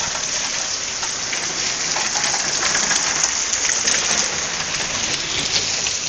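Heavy rain pouring down: a steady hiss of rain hitting the ground.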